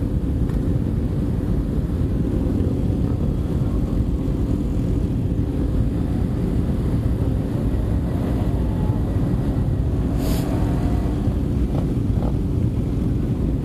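Steady rumble of motorcycles running, mixed with wind noise on the microphone, and one brief sharp noise about ten seconds in.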